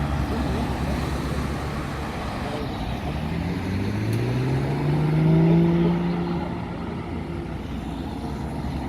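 A car engine pulling away, its note rising in pitch from about three seconds in and loudest around five and a half seconds, then fading. A low, steady engine rumble runs beneath it.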